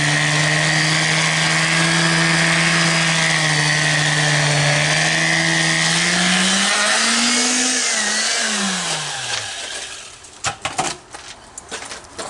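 Electric vibrating tool running steadily with a motor hum as it vibrates freshly placed cement to settle it. About seven seconds in its pitch rises briefly, then winds down and stops. Several sharp knocks follow near the end.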